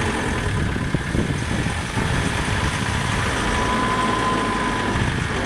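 Vehicle engine idling steadily, a low rumble.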